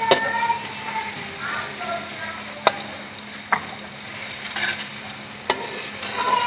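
Onions and crushed garlic sizzling in hot oil in an aluminium karahi, stirred with a metal slotted spatula that scrapes the pan and knocks against it about four times.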